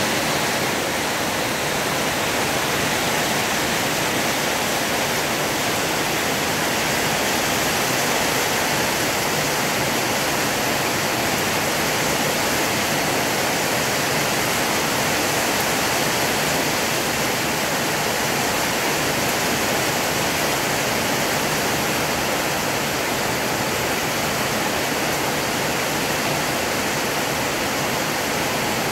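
Heavy rain pouring steadily onto corrugated metal roofs in a night storm, a dense unbroken hiss.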